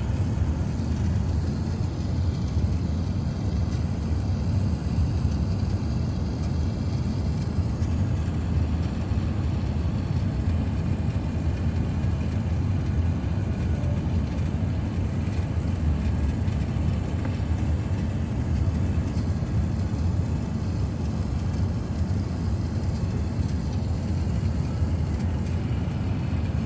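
Steady low rumble inside an Airbus A380's rear cabin on its approach: engine and airflow noise, even throughout with no distinct events.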